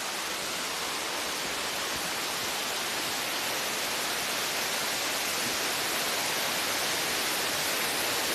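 Steady rushing of a waterfall, an even hiss of falling water that grows slightly louder.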